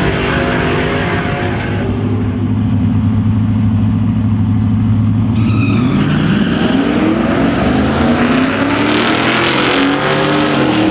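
Truck engine running at a steady high rev, then revving with its pitch rising several times.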